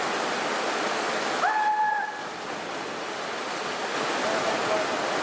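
Steady rushing of a waterfall, with a short, high, held shout about a second and a half in.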